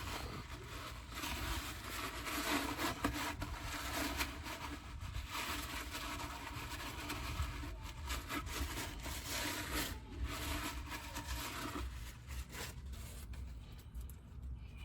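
Irregular scraping and rubbing as old gear oil and sludge are cleaned out of a rear differential housing, over a steady low rumble.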